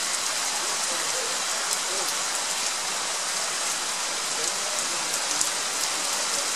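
Steady rain shower falling on surfaces, with scattered sharp ticks of drops striking close by.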